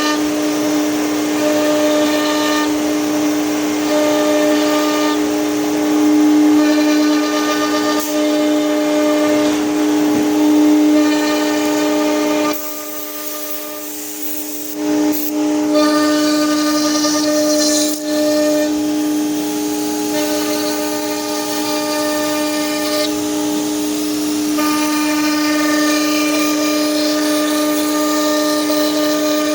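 CNC machine running with a steady whine, joined by higher tones that switch on and off every second or so as it moves. The sound drops away for about two seconds near the middle, then resumes.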